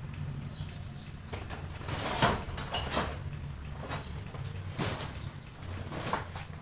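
About five sharp knocks or scrapes, spaced irregularly, over a low steady hum.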